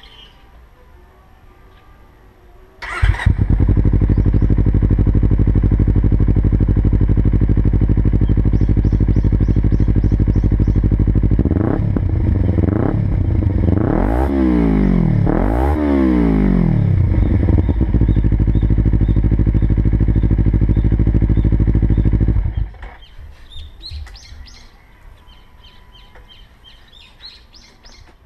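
Kawasaki Ninja 300's 296 cc parallel-twin engine through its stock exhaust: it starts about three seconds in, idles steadily, is blipped up and down several times, then idles again and shuts off. Birds chirp before the start and after it stops.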